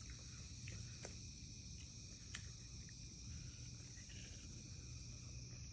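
Faint steady chirring of insects, with a few soft clicks.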